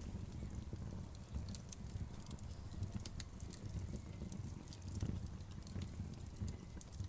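Wood fire burning in a fireplace: logs crackling with scattered sharp pops over a low, fluttering rumble of flames.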